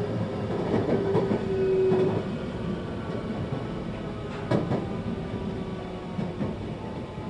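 521-series electric train slowing into a station, heard inside the car: a motor whine falling in pitch and fading out in the first two seconds over the rumble of the wheels, with clacks over rail joints and a sharp knock about four and a half seconds in.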